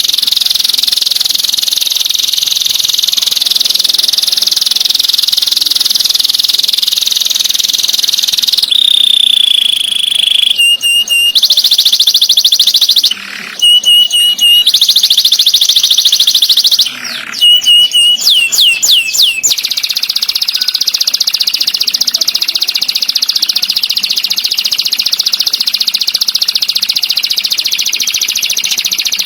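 Recorded songbird song, a dense, very fast rolling trill for most of the time. In the middle it breaks into a falling whistle, bursts of sharp, rapid repeated notes and a quick run of downward-sweeping notes before the trill resumes.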